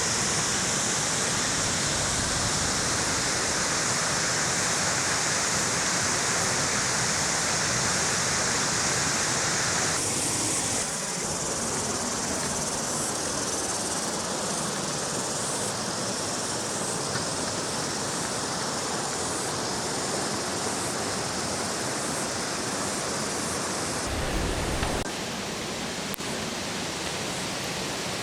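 Steady rushing of falling or running water. It changes abruptly in tone twice, about a third of the way in and again near the end.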